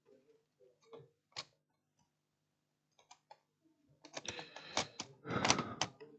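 Scattered light clicks and taps of small tools and multimeter probes being handled at a repair bench, turning into a busier patch of clicking and rustling about four seconds in.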